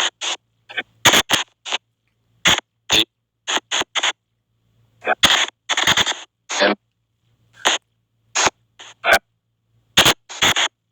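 Spirit-box app (SP White Noise box) on an Android phone playing choppy, irregular bursts of white noise and clipped sound fragments through the phone's speaker, about two a second with short silent gaps and a faint low hum beneath.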